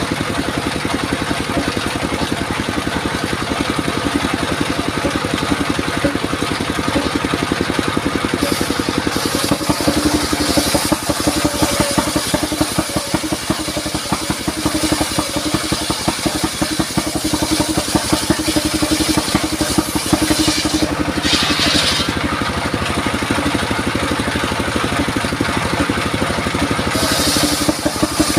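Engine-driven circular saw rig running steadily with an even, rapid pulse, the blade cutting into durian wood in three short hissing stretches.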